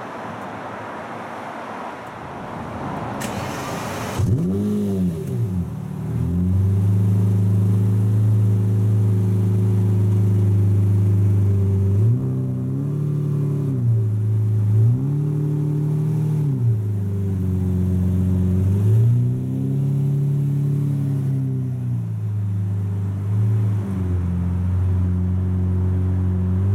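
Lamborghini Murciélago LP640's 6.5-litre V12 being started: after a brief burst of starter cranking it catches about four seconds in with a quick flare of revs that falls back to idle. It then idles steadily, with several short throttle blips and one longer rev.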